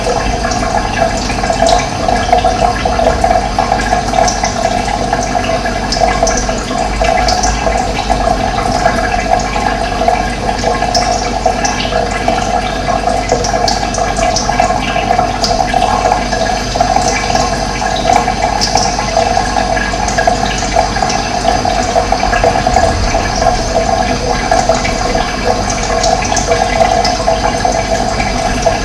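Running water flowing steadily, with short, high bird chirps scattered over it.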